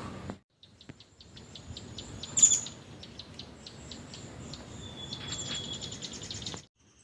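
Forest birds calling: series of quick high chirps, with one louder call about two and a half seconds in and a short held high note near the middle.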